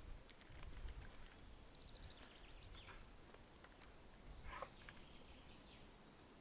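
Quiet woodland ambience with a small bird singing a fast trill of high notes that falls in pitch, about a second and a half in, and a few faint chirps and ticks around it.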